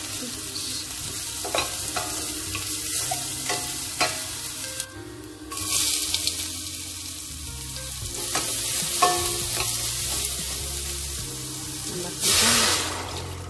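Chopped shallots and garlic sizzling in hot oil in a stainless-steel pot, stirred with a wooden spatula that knocks now and then against the pot. The sizzle grows louder about five and a half seconds in as sliced onion goes in, and a short loud hiss comes near the end.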